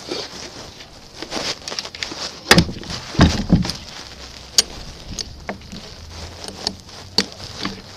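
Scattered knocks, clicks and rustling of things being handled, with a few louder thuds about two and a half to three and a half seconds in.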